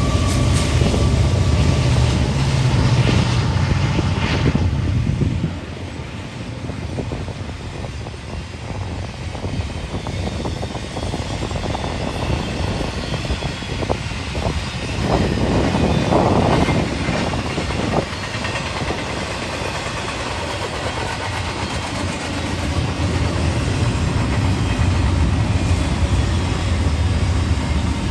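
A train passing close by: a heavy low engine rumble for the first five seconds or so drops away, then the rolling noise and clatter of rail cars going past, with the low rumble building again near the end.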